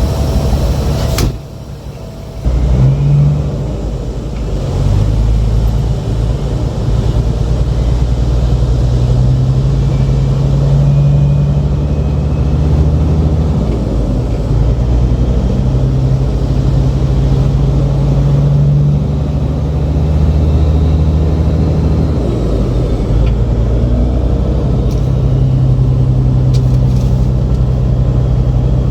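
Heavy diesel semi-truck engine pulling, its pitch stepping up and down several times as the truck works through its gears, with a brief break about a second in.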